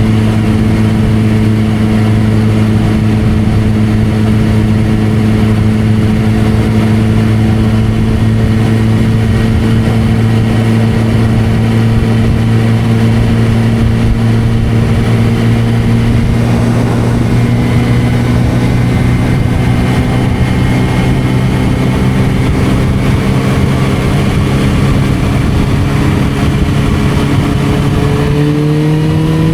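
Suzuki GSR600's inline-four engine through an aftermarket Dominator exhaust, running at steady revs whose pitch creeps slowly up. Near the end it rises more quickly as the bike accelerates.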